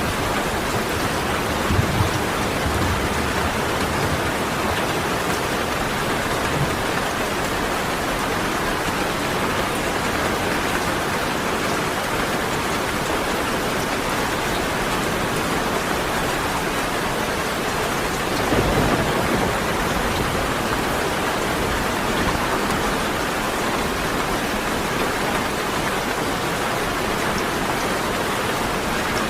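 Steady rain falling, an even hiss of drops throughout, with two brief low thuds, one about two seconds in and another a little past the middle.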